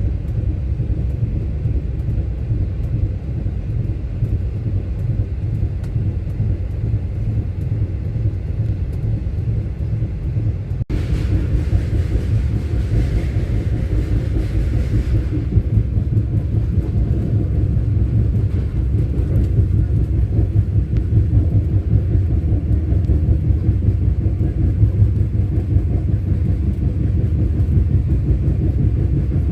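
Passenger train running at speed, heard from on board: a steady low rumble. About eleven seconds in there is a brief break, then a few seconds of rushing hiss over the rumble.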